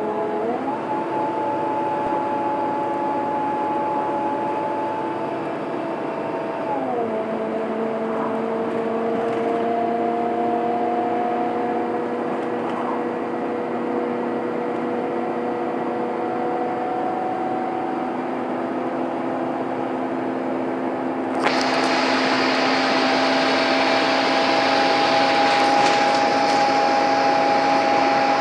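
Scania N230UD double-decker bus engine working hard uphill, with the whining, vacuum-cleaner-like 'hoover' sound Scanias are known for. The whine holds several steady tones that step up in pitch about a second in and drop back around seven seconds; about 21 seconds in it suddenly turns louder and harsher.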